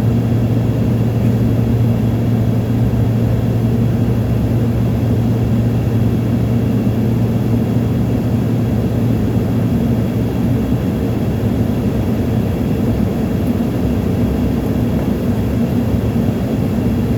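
Steady drone inside an airliner's cabin in flight: engine and rushing-air noise with a strong low hum, unchanging throughout.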